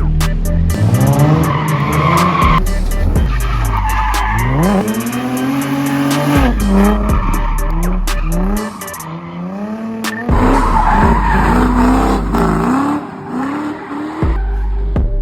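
Car engine revving hard, its pitch repeatedly rising and falling, with tyres squealing as a car drifts.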